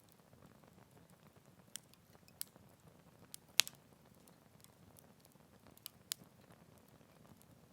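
Wood campfire crackling: a faint low hiss of burning with about six scattered sharp pops, the loudest about halfway through.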